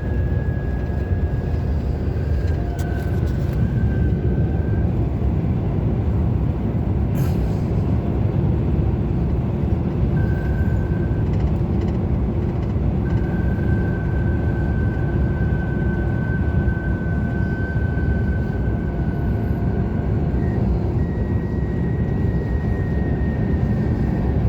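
Steady road and engine rumble of a police car cruising at highway speed, heard inside its cabin, with a faint high whine that comes and goes.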